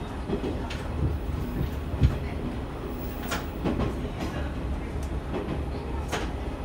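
Diesel railcar of the Tenryu Hamanako line running along single track, heard from inside at the front: a steady low rumble of engine and wheels, with a few sharp wheel clacks on the rails, the loudest about two seconds in.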